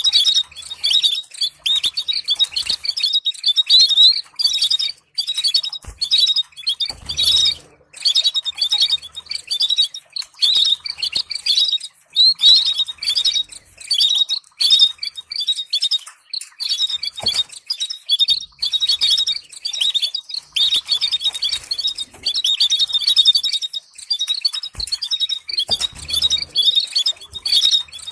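Canary singing: a long, fast run of trills and chirps with a few brief pauses.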